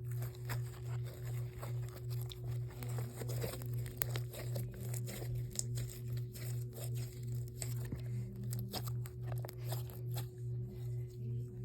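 Slime being squished and stretched by hand, giving many sticky clicks, crackles and small pops. Under it runs a steady low hum that pulses about two to three times a second.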